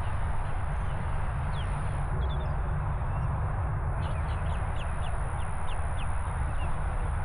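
Wind buffeting the microphone in a steady low rumble, with a bird calling in short falling high chirps, a quick run of them about four seconds in.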